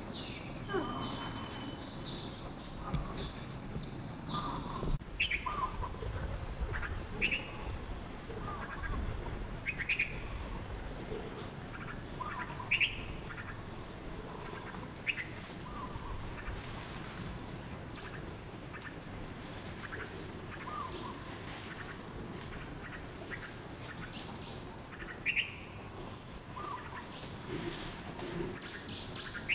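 Outdoor nature ambience: short high chirping calls every few seconds over a steady high-pitched insect drone.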